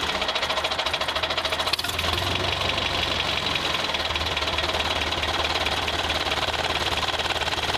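Small motor of a DIY mini truck running steadily with a fast, even ticking rhythm, with a single click just under two seconds in.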